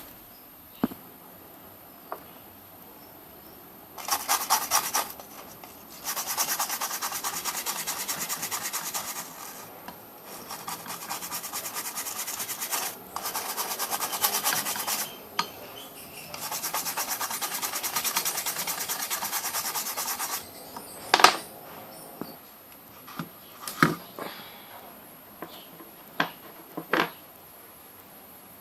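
Rapid scraping or rubbing on a hard surface in several stretches of a few seconds each, followed near the end by a few sharp clicks.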